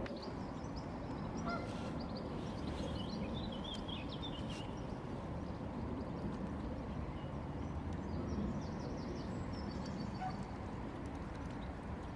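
Birds calling, with scattered short chirps and calls on and off over a steady low background rumble.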